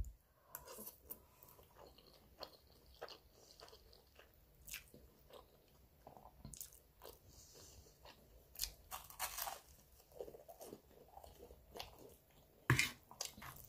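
A person chewing a mouthful of spaghetti close to the microphone: quiet, wet mouth clicks and smacks scattered throughout, with one louder click near the end.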